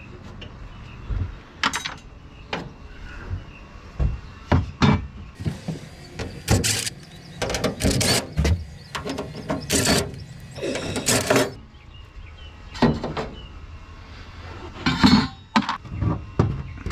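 Irregular metal clanks, knocks and scraping as the sheet-metal casing of an air conditioner unit is handled and pulled apart while it is being dismantled for scrap.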